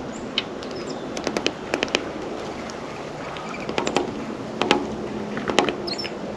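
Birds at a seed feeder close to the microphone: irregular sharp taps and clicks of beaks pecking and cracking seed and feet landing on the feeder, with a few faint high chirps.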